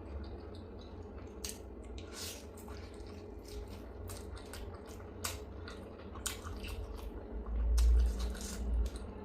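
Close-miked mouth sounds of eating momos: wet chewing and lip-smacking, with irregular sticky clicks. A louder low rumble comes near the end.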